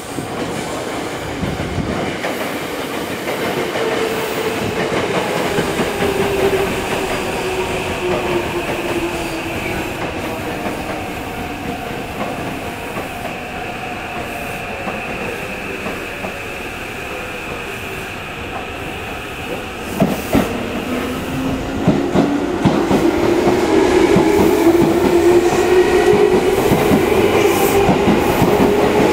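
Electric commuter trains at a station: an arriving Tokyo Metro 8000 series train's motor whine falls in pitch as it brakes. About twenty seconds in, wheels clack over rail joints and a rising motor whine sets in as a train runs along the platform close by, growing louder.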